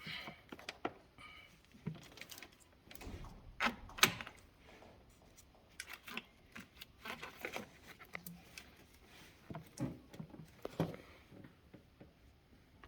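Irregular clicks, taps and light knocks of small hard objects being handled, scattered unevenly with no steady rhythm.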